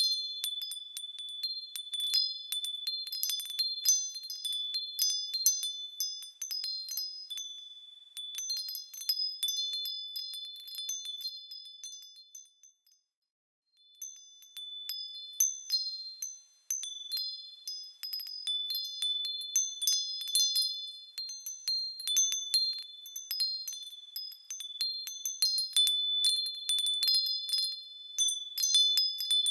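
Small metal bells swinging and ringing over and over in high, clear overlapping tones. The strikes are irregular and there is a brief gap about thirteen seconds in.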